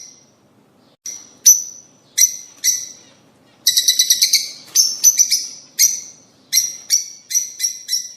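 Rosy-faced and Fischer's lovebirds chirping: short, sharp, high calls, some single and some in quick runs, with a rapid burst of chirps about four seconds in.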